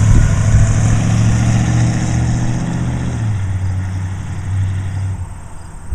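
1964 Oldsmobile Cutlass F85's 330 V8 running with a steady low engine note that slowly fades away across a few seconds.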